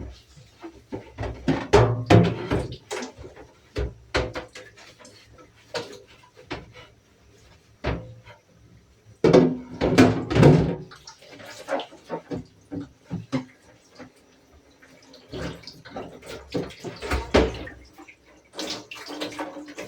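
Household cleaning: irregular knocks and clatters of things being handled, with louder bursts of running or splashing water about halfway through and again near the end.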